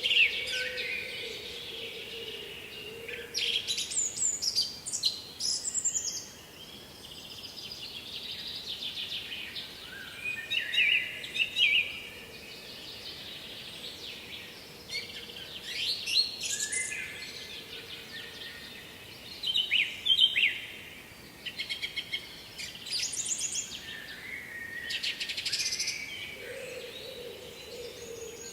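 Songbirds singing: bursts of quick chirps and trills every few seconds, over a low steady hiss. A faint steady hum is heard at the start and again near the end.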